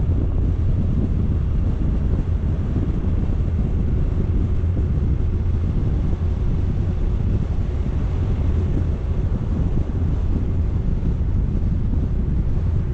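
Steady wind buffeting on the camera microphone: a dense, unbroken low rumble.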